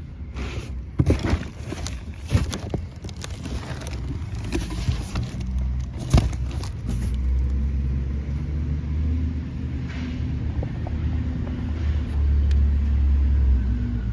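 Scattered knocks and clicks, then from about halfway a truck engine running with a steady low drone.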